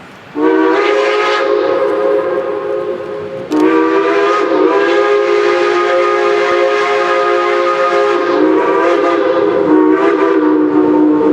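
Geared steam logging locomotive's whistle blowing two long blasts. The first lasts about three seconds; the second runs on longer, its pitch dropping slightly partway through.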